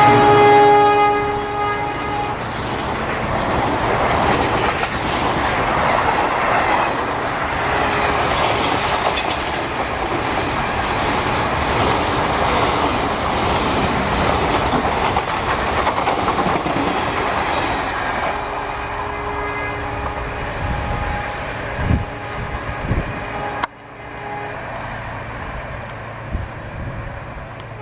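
A diesel-hauled train passing close by at speed: the end of its horn with a falling pitch in the first second, then a long loud rush and clatter of wheels and coaches on the rails that slowly fades. The sound cuts suddenly near the end to a quieter scene with a faint steady tone.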